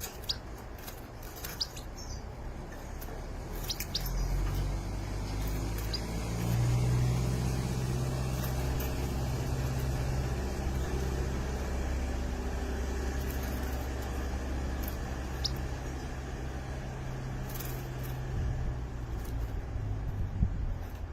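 Birds giving a few brief, high chirps over a steady low rumble that comes in about four seconds in.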